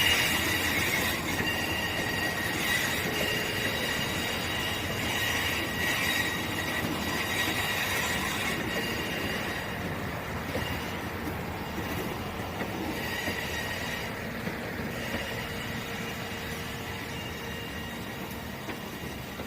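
Train wheels squealing on the rails: several high, steady squeal tones over the rumble of a moving train, loudest in the first half and gradually fading.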